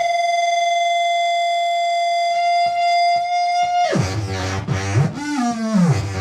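Electronic noise music from a drum machine patched into a no-input mixer: a steady, buzzy feedback-like tone is held for about four seconds, then breaks into loud, distorted pitch sweeps that slide downward over pulsing beats.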